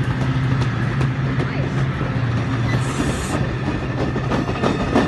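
MARC commuter train's passenger cars passing close by, wheels clicking over rail joints over a steady low hum. A brief hiss comes about three seconds in.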